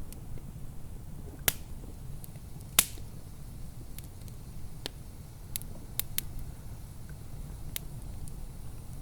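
Wood fire burning in a fireplace, with a low steady rumble and irregular sharp crackles and pops; the loudest pop comes about three seconds in.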